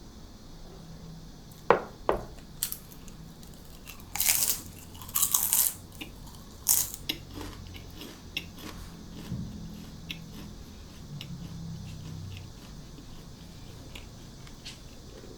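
Close-miked eating: several sharp, crunchy bites into crisp food in the first seven seconds or so, followed by quieter chewing.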